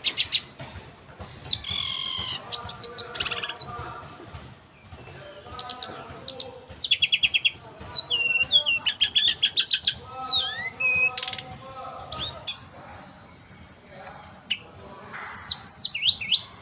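Tledekan gunung songbird singing a varied song of rapid chirps, fast trills and sliding whistles, with short pauses between phrases.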